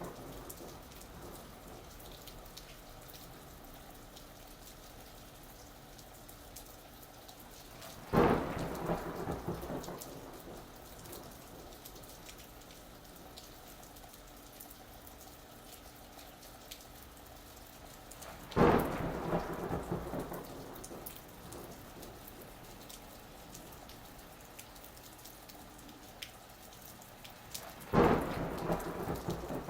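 Steady rain falling, with three sudden thunderclaps about ten seconds apart: a third of the way in, about two thirds in and near the end. Each crack rumbles away over a couple of seconds.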